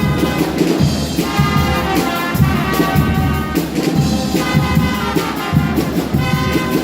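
Guggenmusik brass band playing loudly: trumpets and trombones holding chords over a steady beat of bass drum and percussion.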